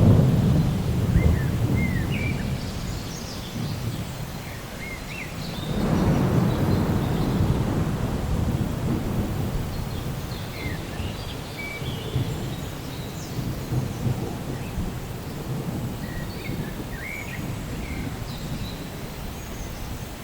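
Steady rain with two long rolls of thunder, one at the start and another about six seconds in, each rumbling low and fading away over several seconds.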